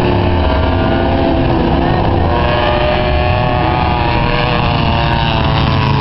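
Engines of several racing trucks running hard together during a race, their pitches drifting up and down as they accelerate and lift.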